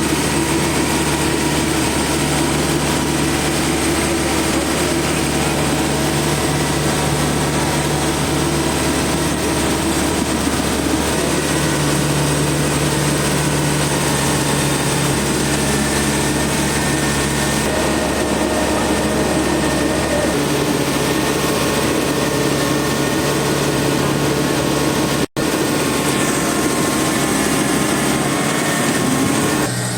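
Kubota DC70 combine harvester running steadily as it works, a continuous mechanical drone with a constant high tone above it, broken by a split-second dropout about 25 seconds in.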